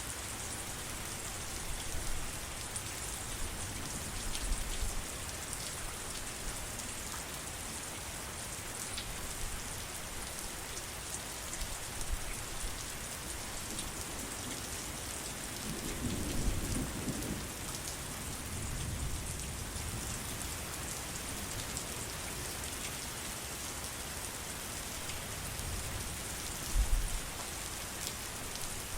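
Steady heavy rain falling, with a low rumble of thunder swelling about halfway through and a brief low thump near the end.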